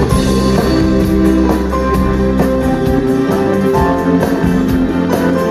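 Live rock band playing an instrumental passage, with guitars over bass and drums and no singing.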